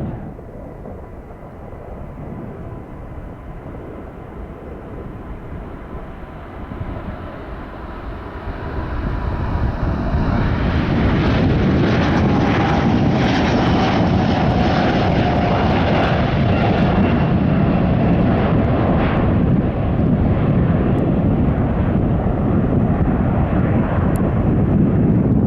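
Jet airliner taking off: a distant engine rumble grows loud about eight to ten seconds in, with a whine that slowly falls in pitch and crackling as the jet passes, then stays a heavy low rumble.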